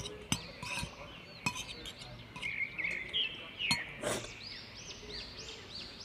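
Small garden birds chirping and singing: many short, high whistled notes, some falling, with a run of quickly repeated arched notes in the second half. A few sharp clicks are scattered through it.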